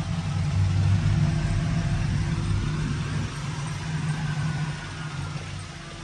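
Pontiac Trans Am's engine idling steadily on its own after sitting unstarted for a long time. The sound grows louder about a second in, then eases off slowly.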